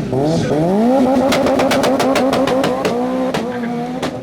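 Rally car engine revving up, then holding a steady high note while a rapid string of sharp pops and cracks sounds from the exhaust, about seven a second, followed by two more single cracks near the end.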